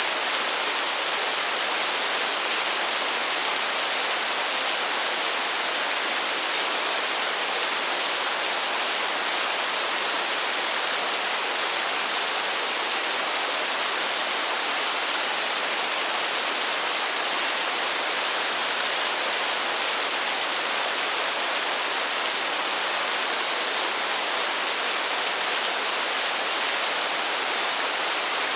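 Steady heavy rain falling in a forest: a dense, even hiss with no separate drops standing out and no change in level.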